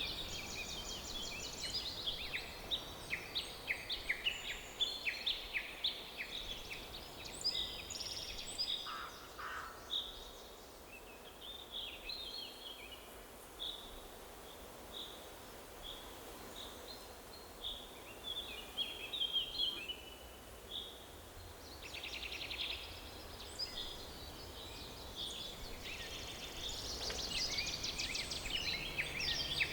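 Forest songbirds chirping and trilling over a faint steady background hiss. The chorus is busy at first, thins to scattered single notes in the middle, and builds again near the end.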